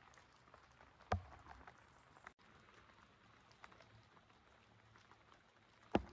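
Faint steady rain with scattered drops ticking on a surface. Two sharper, louder knocks come about a second in and again near the end.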